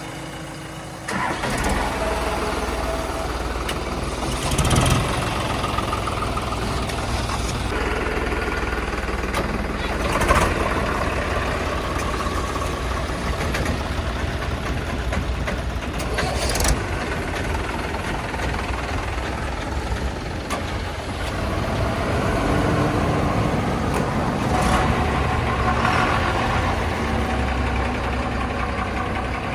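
Heavy diesel machinery running steadily, with a few sharp knocks and clanks along the way.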